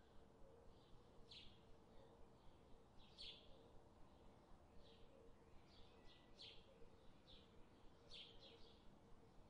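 Near silence: a faint steady hum, with short high chirps of a small bird repeating about once a second.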